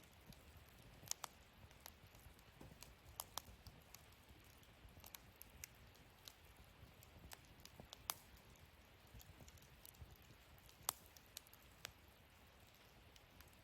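Wood fire burning in a fire-pit stand, crackling quietly with irregular sharp pops over a faint hiss.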